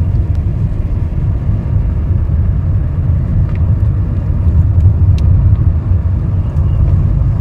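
Steady low rumble of a car driving uphill on a mountain road, heard from inside the cabin: engine and road noise.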